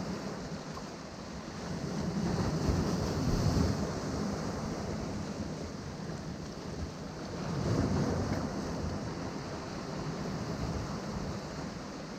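Ocean surf washing against a rocky shore, a steady rush with two waves swelling up and breaking, the first about two seconds in and the second near eight seconds in.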